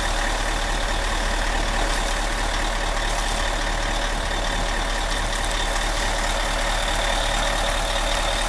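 Fire truck's engine and pump running steadily: a low hum under a constant high whine, with no change in speed.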